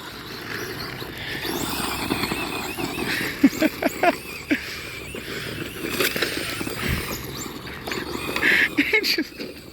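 Brushless electric motors of two 2WD RC short-course trucks (ECX Torment and Traxxas Slash) whining as they drive, with the pitch rising and falling as the throttle changes.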